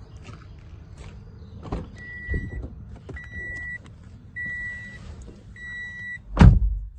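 A car's electronic warning beeper sounds four times, evenly spaced, amid light knocks and rustling. Near the end there is one loud, heavy thump like a car door being shut.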